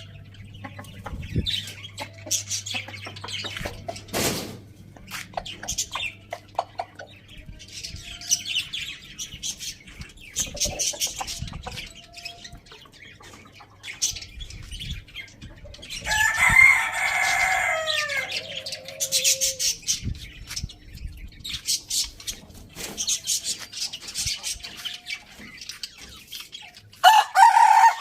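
Chickens clucking and chirping, with a rooster crowing once, a long call about sixteen seconds in that falls away at the end; another crow starts near the end.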